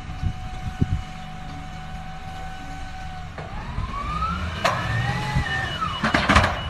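Heavy machinery engine rumbling with a whine that climbs in pitch for about two seconds and then falls away, with loud clattering knocks near the end.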